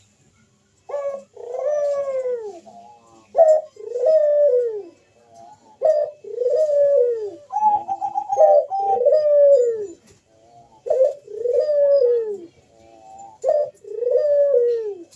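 Barbary doves (burung puter) cooing in their full bekur song. The phrase repeats about six times, each a short sharp note followed by a long arching coo, with one phrase overlapping another near the middle.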